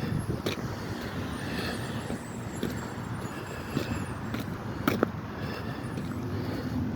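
Road traffic: a steady rumble of passing cars, with a few scattered light clicks.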